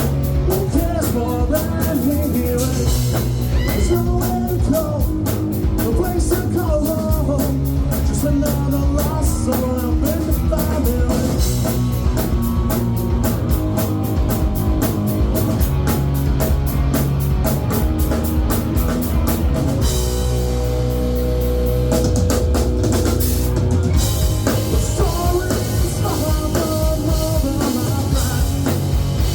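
Rock song with a male or female lead vocal over electric guitar, bass and a steady drum-kit beat; the band drops back briefly about two-thirds of the way through before coming back in.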